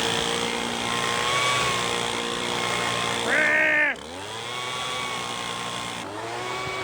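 Gas-engine leaf blower running steadily, revving up briefly about three seconds in, then dropping off sharply and settling back to a steady run.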